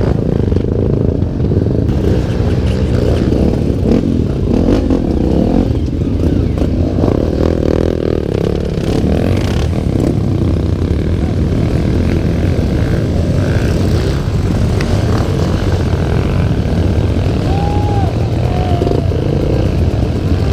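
Honda Tornado motorcycle's single-cylinder four-stroke engine, bored out to 319 cc, running steadily.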